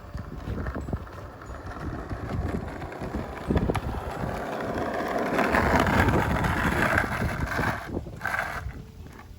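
Skateboard wheels rolling downhill on pavement, a rumbling hiss that swells to its loudest about two-thirds of the way through and fades near the end, with a knock from the board a little past a third of the way in and wind buffeting the microphone.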